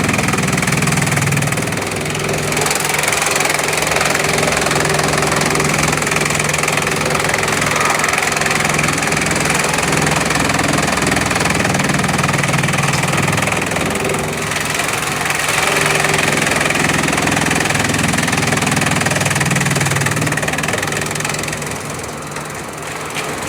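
Bamboo chipping machine running with a loud, steady mechanical drone, easing off a little near the end.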